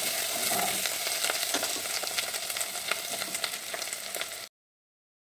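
Mushrooms sizzling in a pot on a gas stove, stirred and scraped with a wooden spoon, with many small clicks of the spoon against the pot. The sound cuts off abruptly about four and a half seconds in.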